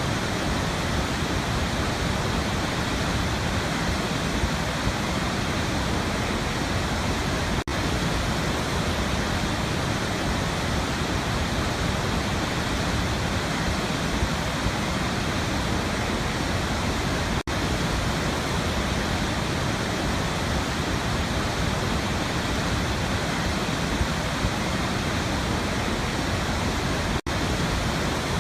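Waterfall rushing in a steady, even roar of falling water, broken by three very brief dropouts about ten seconds apart.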